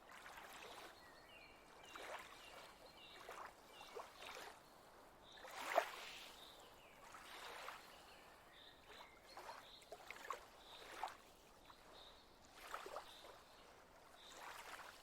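Faint water lapping gently, in soft irregular splashes about a second apart, the strongest about six seconds in.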